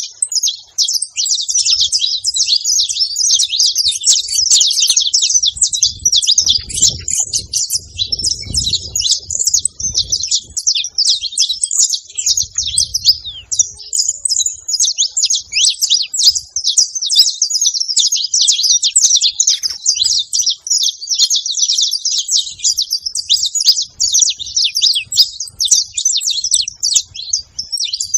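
Several saffron finches (canários-da-terra) singing and chirping together, a dense, continuous chatter of quick high-pitched notes and trills.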